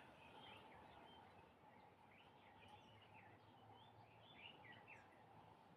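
Faint birdsong outdoors: several short chirping calls over a quiet background hiss.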